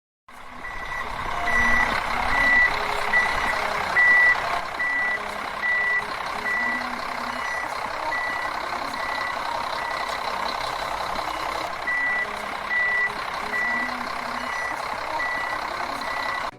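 Truck's reversing alarm beeping at an even pace, a little more than once a second, over a steady engine hum.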